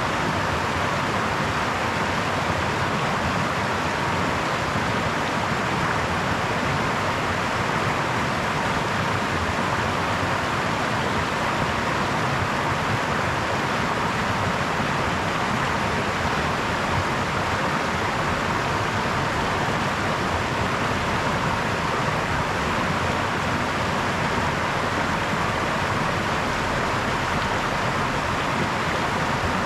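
Small brook flowing over stones, a steady babbling rush of water with no breaks.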